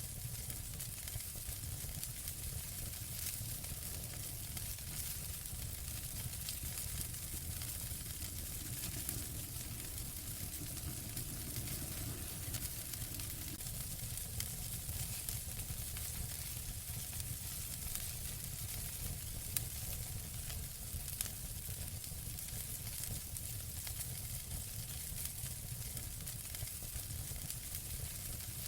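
Wood fire in a fireplace crackling steadily, a soft hiss and low rumble under many small crackles, with two louder pops around twenty seconds in.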